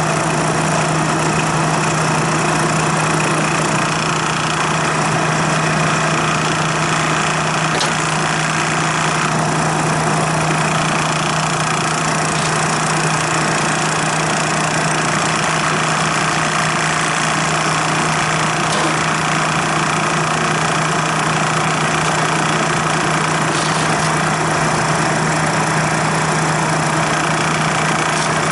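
Refrigerant recovery machine running steadily, its compressor drawing refrigerant out of the air-conditioning system with a constant low hum.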